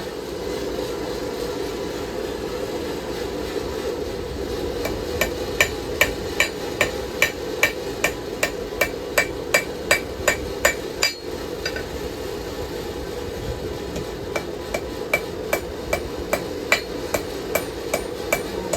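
A 3.5-pound hammer striking hot knife steel on an anvil in a steady rhythm of about two blows a second, each blow ringing, as a knife blade is forged into shape. The blows stop for a couple of seconds a little past the middle, then go on more lightly, over a steady low rushing noise.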